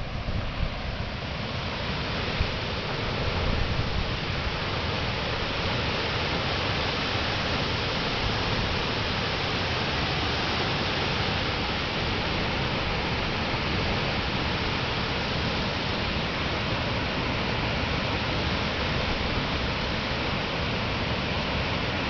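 Bronx River waterfall: water pouring over the falls in a steady, even rush.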